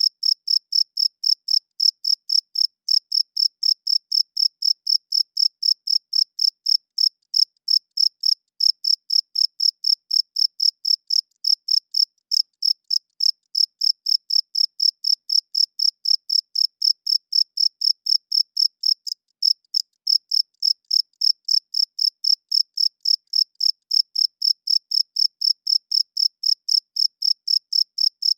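Male crickets chirping steadily, a high chirp repeated about three times a second in an even rhythm, with a few brief skips.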